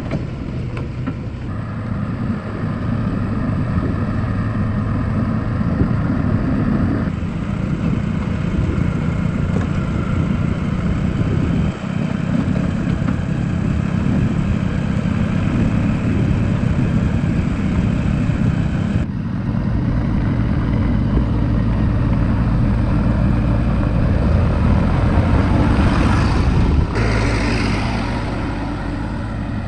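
Diesel engine running steadily, its tone changing abruptly several times as the footage cuts between shots.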